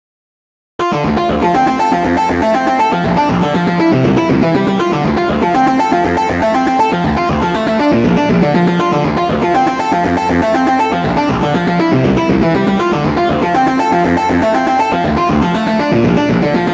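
The 'DistSynChorus' preset of the Roland JD-990, a distorted, chorused synth patch, playing a MIDI phrase with many notes sounding together. It starts abruptly just under a second in and holds at a steady, loud level until the end.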